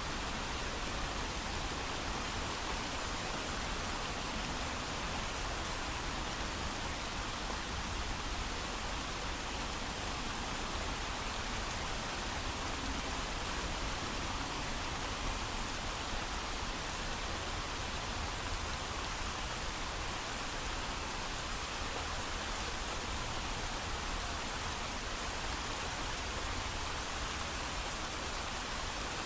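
Steady heavy rain falling, an even hiss without thunder.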